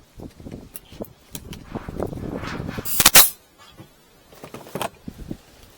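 Hands working on a wooden beehive frame: scattered knocks and clicks, with one loud, sharp crack-like noise about three seconds in.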